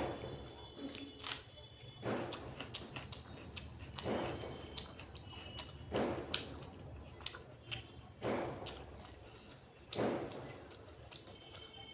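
Close-miked eating sounds: wet chewing and mouth clicks, with a louder surge about every two seconds.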